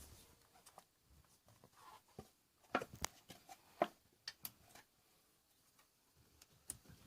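Light clicks and knocks of a motorcycle carburettor and airbox being handled and dropped into place in the frame: a cluster of sharp clicks about three to five seconds in and another near the end.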